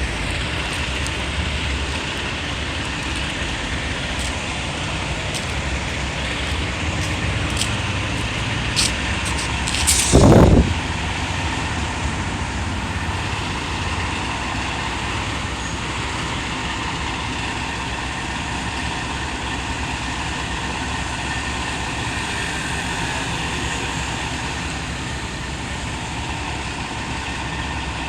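Steady outdoor city traffic noise with heavy engines idling, from the fire trucks on scene, and a short, loud burst of noise about ten seconds in.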